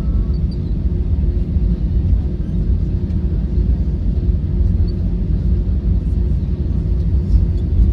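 Airbus A321 with its engines running: a steady low rumble with a faint even hum over it.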